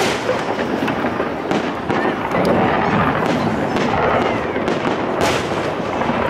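Aerial fireworks shells bursting in a dense, continuous run of bangs and crackling, with one stronger bang about five seconds in.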